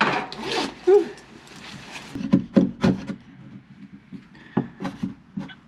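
Wooden boards being notched by hand: a scraping, rasping rub on the wood in the first second, then a series of short sharp knocks and taps on the wood.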